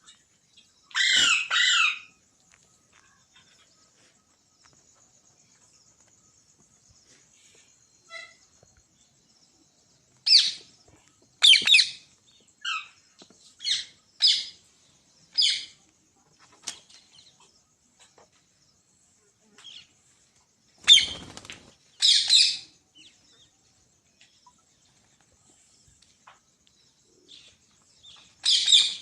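Green parrot calling in bouts of short, high squawks: a double call about a second in, a quick run of about seven calls midway, two more later, and another at the end, with quiet gaps between.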